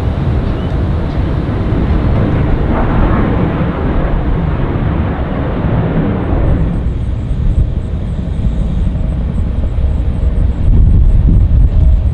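Jet airliner passing close by, its engines giving a loud, steady rumble with a hiss on top. About six and a half seconds in the hiss fades away, leaving a deep rumble that grows louder again near the end.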